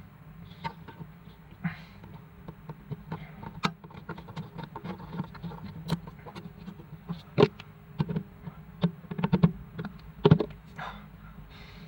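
A steady low hum with scattered light clicks and knocks, two of them sharper, about seven and ten seconds in.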